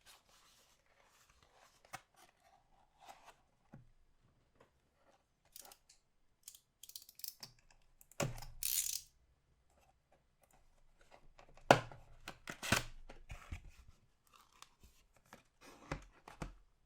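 Trading-card box packaging being torn open and handled: scattered crinkles and taps, a longer tear about eight seconds in, and sharp clicks a little after that.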